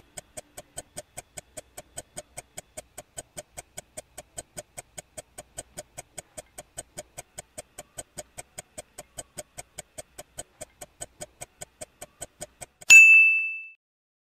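Quiz countdown sound effect: steady clock-like ticking, about four to five ticks a second, then one loud ding near the end marking the answer reveal, ringing out in under a second.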